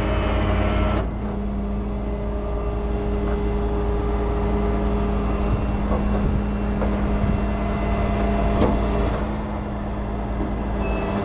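Heavy truck engine running steadily at a constant speed, with a few light knocks over it.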